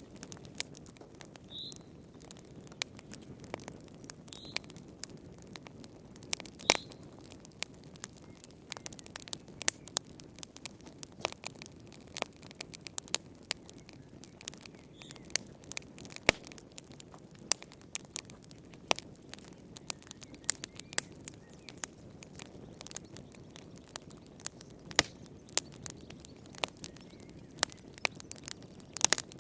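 Wood fire burning in a fireplace: irregular sharp crackles and pops, a few of them loud, over a low steady rush of flame.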